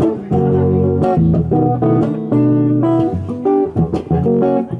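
Guitar playing the closing instrumental passage of a song without vocals: a run of individually sounded notes and chords.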